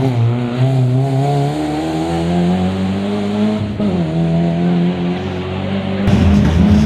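Rally car engine pulling hard under acceleration, its pitch climbing, then dropping sharply on an upshift about halfway through before climbing again. Near the end it turns suddenly louder and rougher as the car comes close.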